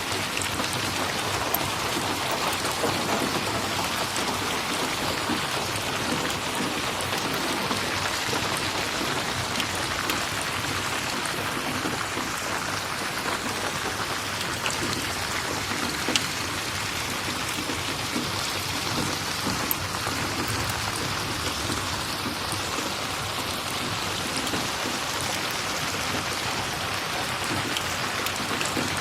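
Steady rain falling, an even dense hiss, with a few sharp clicks here and there.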